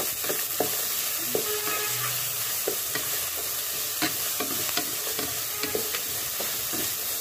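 Chopped onion sizzling in hot oil in a kadai while a spatula stirs it, scraping and tapping against the pan at irregular moments.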